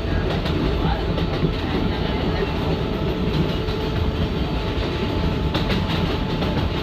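R188 subway train running on its rails, heard from inside the car: a steady rumble of wheels on track, with a few faint clicks near the end.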